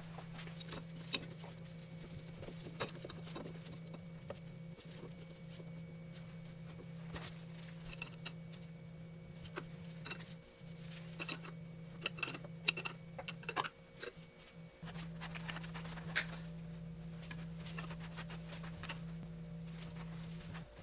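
Irregular light metallic clicks and knocks of tools and small metal parts being handled, over a steady low hum. The background changes abruptly about three quarters of the way through.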